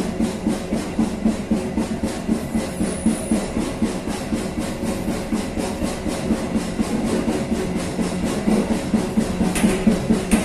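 Train running along the track: a steady rumble of wheels on rail with a fast, even pulsing of about five beats a second, and a sharp clank near the end.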